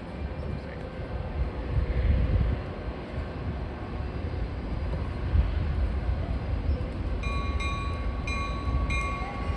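Train approaching with a low rumble that grows louder, and from about seven seconds in a bell ringing repeatedly.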